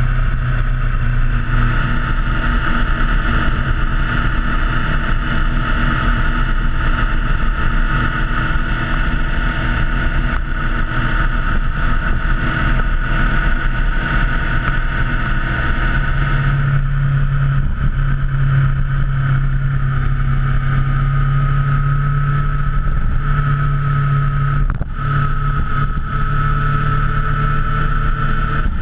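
Motorcycle engine running steadily while riding at a constant pace, its note shifting slightly about two-thirds of the way through, with a brief dip in level about 25 seconds in.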